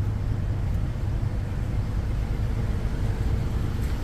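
Vehicle engine idling: a steady low rumble with no change in pitch.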